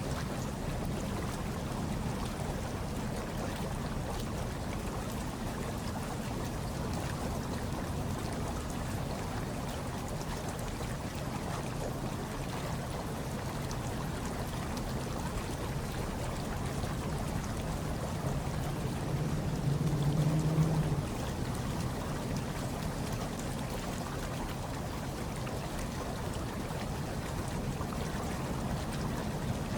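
Hot tub water bubbling and churning steadily, a continuous low watery rumble. About two-thirds of the way through, a brief low hum rises above it for a couple of seconds.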